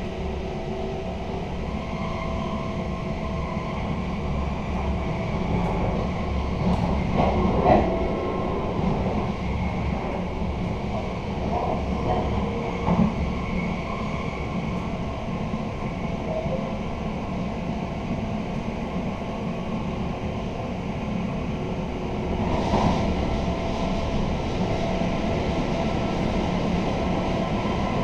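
Inside a passenger coach of a running electric intercity train: a steady rumble of wheels on track, with a few short knocks and rattles, the loudest about a quarter of the way in.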